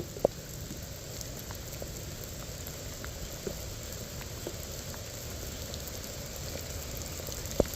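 Steady rain falling, with scattered sharp ticks of drops; two louder taps come just after the start and near the end.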